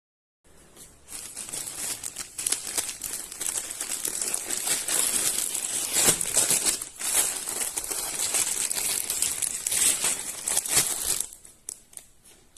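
Crinkling and rustling of thin plastic being handled, running densely for about eleven seconds and dying away near the end.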